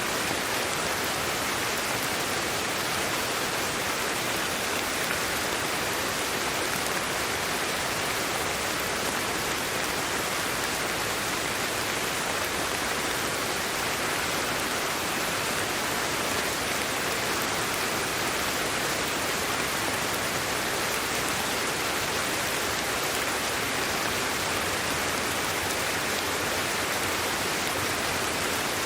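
Steady sleep-aid white noise: an even, unbroken hiss that does not change.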